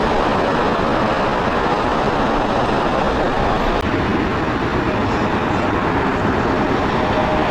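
Jet airliner passing low overhead on final approach, a loud steady engine roar.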